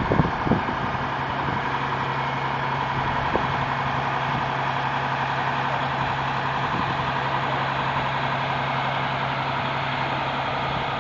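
Aerial ladder fire truck's engine running steadily at idle, with a constant low hum, and a couple of brief knocks right at the start and another a few seconds in.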